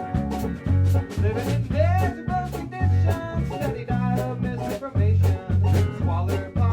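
Live band music: an upbeat swing-style tune with a steady drum beat and guitar.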